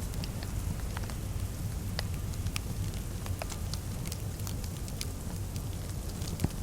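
Wood fire crackling in a fireplace: scattered sharp pops and ticks over a steady low rumble, with one louder pop near the end.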